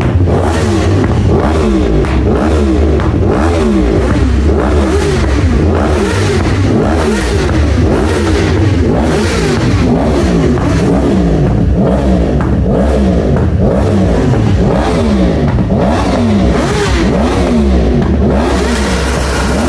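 Inline-four superbike engines being revved over and over in quick throttle blips, overlapping one another, each rev rising and falling in pitch about once or twice a second over a steady low idle rumble.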